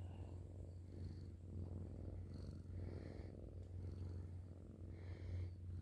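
Domestic cat purring close up: a steady low rumble. Faint crickets chirp now and then in the background.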